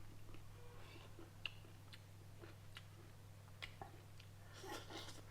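Faint, scattered clicks and soft mouth sounds of someone eating, growing denser near the end, over a steady low hum.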